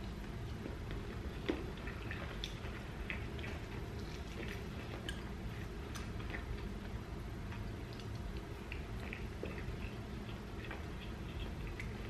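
Close-miked chewing and mouth smacking as a person eats, many small wet clicks scattered through, over a low steady hum. One louder tap comes about one and a half seconds in.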